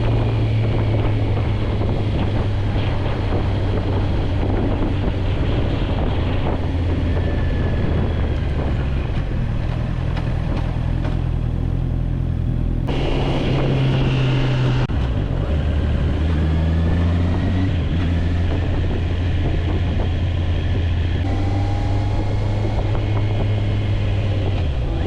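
Motorcycle engine running on the move, its low hum stepping up and down in pitch several times as speed and gears change, with wind rushing over the microphone.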